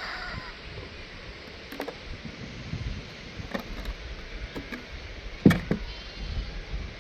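Several sharp knocks, the loudest about five and a half seconds in, over a steady low rumble.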